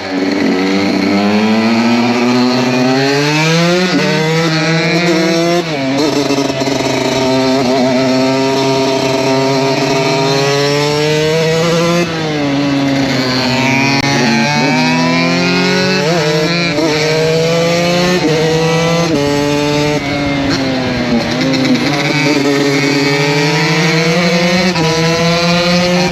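KTM 125 SX two-stroke single-cylinder motocross engine, loud, its revs climbing and falling back over and over through the gears.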